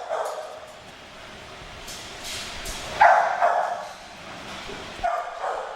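Dogs barking in shelter kennels: a few separate barks, the loudest about three seconds in, with another just before the end.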